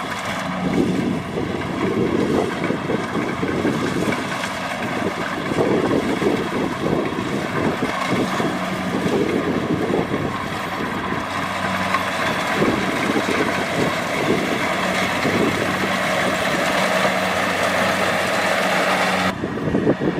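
Kubota DC-70 Plus rice combine harvester's diesel engine running steadily, a constant pitched hum over a rough, uneven rumble. Near the end the higher part of the sound cuts out abruptly.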